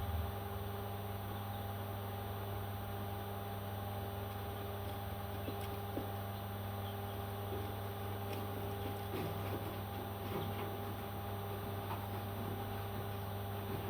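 A steady electrical or mechanical hum with several fixed pitches, with a few faint, light ticks scattered through the middle.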